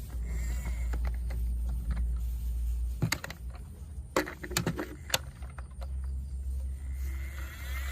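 Toy trucks being handled, giving a cluster of sharp clicks and knocks about three to five seconds in over a steady low rumble.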